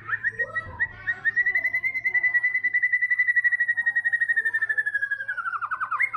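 White-rumped shama singing a long, rapid trill of evenly repeated notes held at one pitch, which falls near the end. A faint low hum runs underneath.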